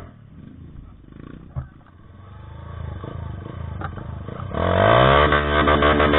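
Trail motorcycle engine running low and uneven, then revving hard about four and a half seconds in, its pitch rising as it gets loud.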